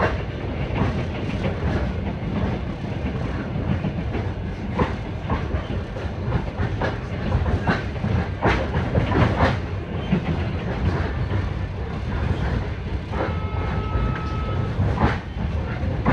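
Passenger train running along the track, heard from inside the carriage: a steady low rumble with irregular clicks and knocks from the wheels. About thirteen seconds in, a short high steady tone sounds for just over a second.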